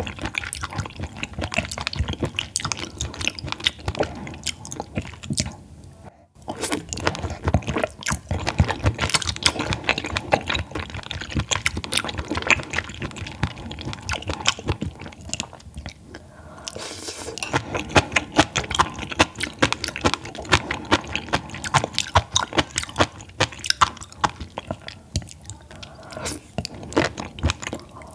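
Close-miked chewing and biting of raw baby squid sashimi and sea grapes: a dense run of small clicks and crunches. It stops for a moment about six seconds in.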